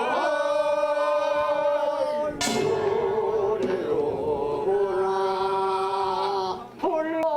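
Korean traditional field song (deulsori) sung by men's voices in chant style, holding two long steady notes with a brief sharp break about two and a half seconds in.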